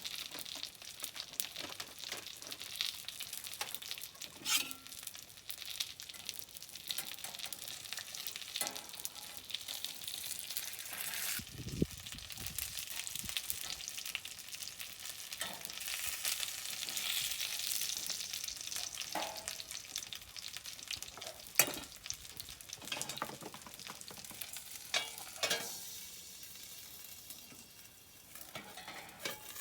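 Gyoza frying in a pan over a campfire: a steady crackling sizzle, with a few sharper pops and clicks now and then.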